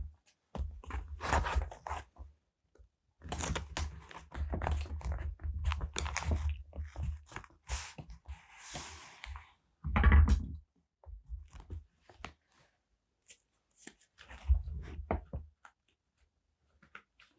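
Paper being handled for journaling: crinkling and tearing of paper and sticker sheets in irregular bursts, with dull knocks, the loudest about ten seconds in, and a few light taps near the end.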